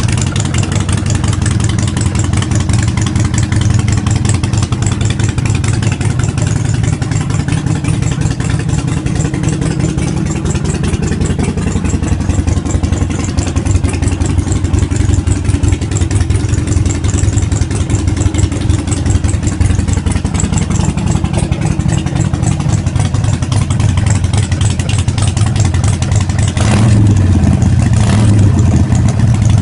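Harley-Davidson Forty-Eight Sportster's air-cooled 1200 cc V-twin running at idle, with the throttle blipped briefly twice near the end.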